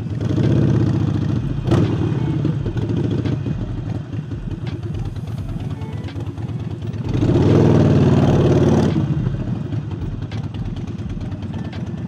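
Harley-Davidson Forty-Eight's V-twin, fitted with a new air intake, running under way and opening up to overtake. It surges briefly at the start and again just under two seconds in, then in a longer, louder pull about seven seconds in before settling back to a steady cruise.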